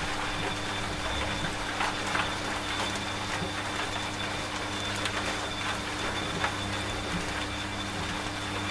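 Washing machine running with a steady low motor hum, mixed with steady rain pattering.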